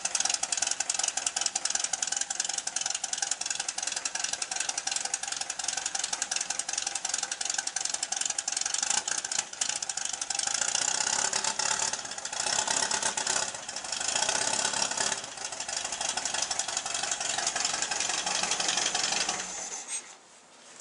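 Freshly rebuilt 1974 VW Beetle air-cooled flat-four engine running unevenly just after a cold start, with several louder surges about halfway through, then stopping abruptly about a second before the end. The hesitation comes from one of its two carburetors, which leans out and backfires: kind of nasty, very unsmooth.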